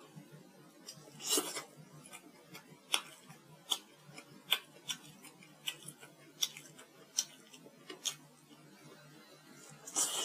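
Close-miked chewing of braised pork rib meat: wet mouth clicks and smacks in a steady chewing rhythm, a little faster than one a second, with a louder, longer smack about a second in.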